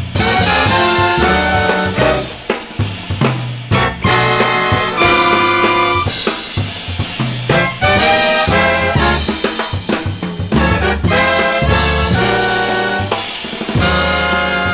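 Big-band jazz music: a brass section of trumpets and trombones playing held chords over a drum kit.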